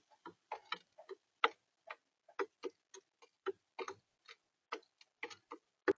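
A bird pecking at seed on the feeder, its beak tapping the feeder's tray close to the camera's microphone: a run of irregular sharp taps, about three a second.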